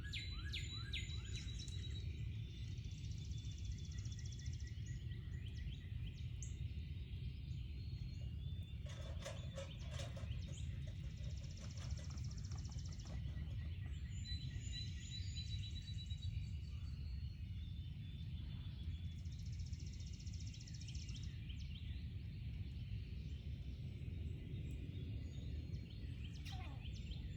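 Garden ambience: small birds chirping and trilling high up, with a high buzzy trill lasting about two seconds heard three times, over a steady low background rumble. A brief cluster of clicks and a short lower call comes about nine seconds in.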